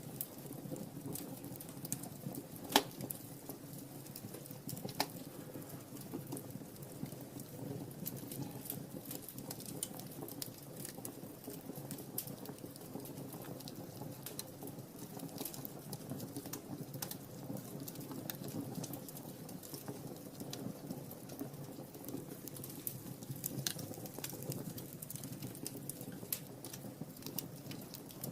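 Wood fire in a fireplace crackling, with scattered small pops over a steady low rush, and one sharper pop about three seconds in.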